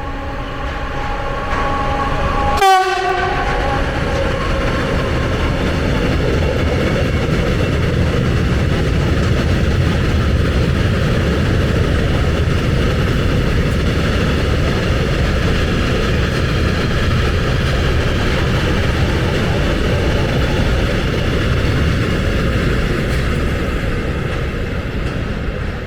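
DB Cargo class 193 Vectron electric locomotive passing at speed with a tanker train: its tonal sound drops sharply in pitch as it goes by about three seconds in, then the tank wagons rumble and clatter past steadily, easing slightly near the end.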